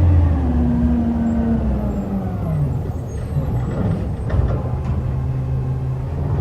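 Garbage truck's diesel engine coming down from a rev and settling to a steady idle, with a few short knocks about four seconds in.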